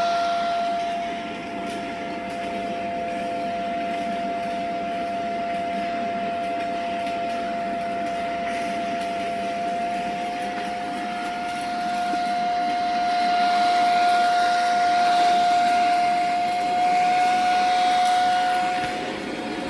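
Electric arc welding in progress: a steady hissing crackle of the arc with a constant whine running under it. It grows louder over the last third, and the whine and the hiss stop together near the end as the arc is broken.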